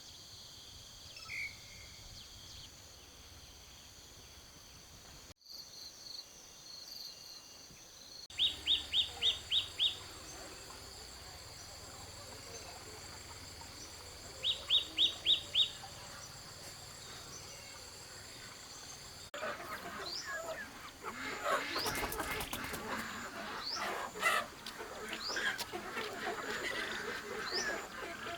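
Birds chirping outdoors over a steady high drone, with two quick runs of about six chirps each and busier chirping mixed with clicks in the last third.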